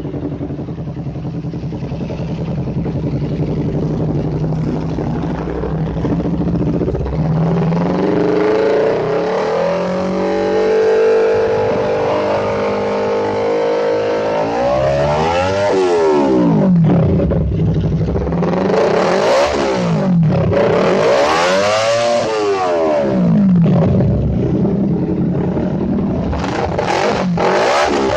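Honda CBR250RR motorcycle engine through a Phoenix aftermarket exhaust, idling steadily, then revved up and held at higher revs. From about halfway on it is blipped hard several times, the pitch sweeping up and dropping back with each rev.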